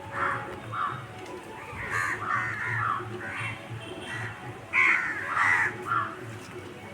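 Crows cawing repeatedly in a string of short, harsh calls, loudest about five seconds in.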